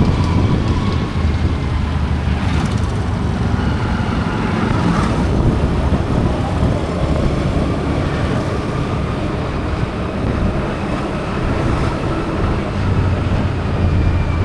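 Steady road traffic noise: vehicle engines and tyres with a continuous low rumble and no pauses.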